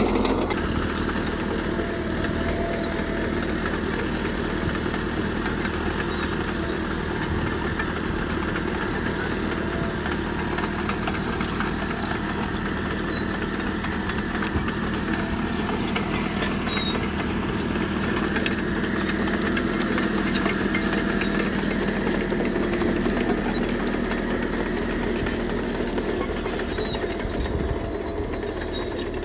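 Caterpillar D3K crawler bulldozer's diesel engine running steadily while working gravel, with scattered light clicks over it; it gets slightly quieter near the end.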